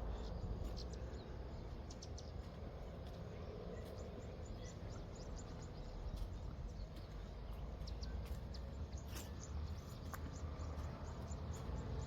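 Outdoor ambience: a steady low rumble with scattered short, high bird chirps and clicks.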